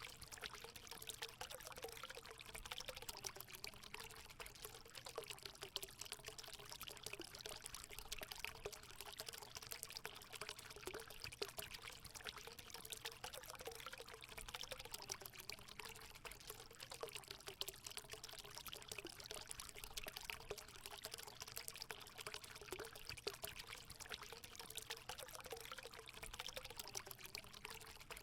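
Natural spring water pouring steadily into a hot spring pool: a continuous splashing flow with a wavering gurgle running through it.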